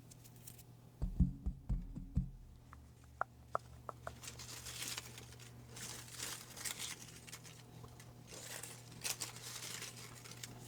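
A slip of paper crinkling and rustling with scattered soft clicks as it is drawn from a hat and unfolded. A few low bumps of handling come about a second in.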